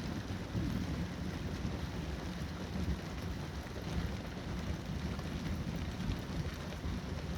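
Rain falling steadily in a thunderstorm, with fine drop ticks over a continuous low rumble.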